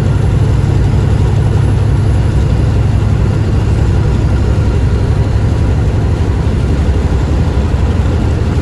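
Semi truck's diesel engine and road noise heard from inside the cab while driving on the freeway: a steady low drone.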